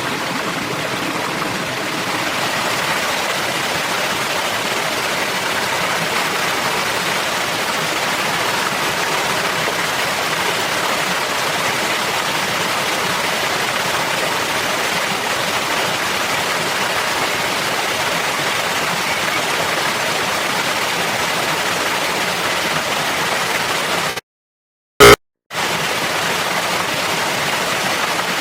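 Steady rush of flowing water, as of a forest stream. Near the end it cuts out to silence for over a second, broken by a single very loud click.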